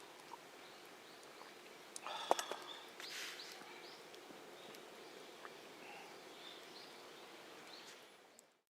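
Quiet outdoor ambience with faint, scattered bird chirps. A short cluster of sharp knocks comes about two seconds in, followed by a brief swish. Everything fades out just before the end.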